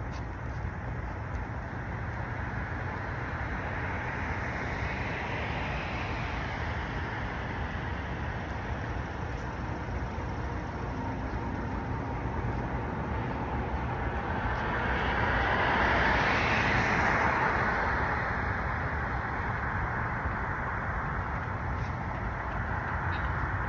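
City street traffic: a steady noise of road vehicles with cars passing by, one swelling up and fading about a quarter of the way through and a louder one about two-thirds of the way through.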